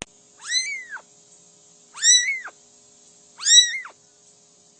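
A cat meowing three times, about a second and a half apart; each meow is high-pitched and rises then falls in pitch.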